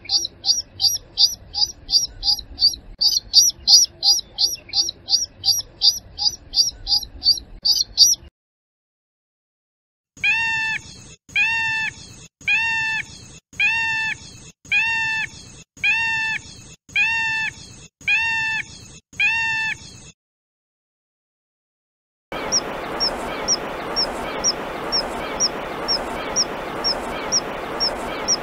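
Three separate recordings of water birds calling, each ending abruptly in silence. First comes a fast run of high, sharp notes, about three a second. Then a lower call with several stacked tones repeats about once a second, and last come short high notes about twice a second over a steady hiss.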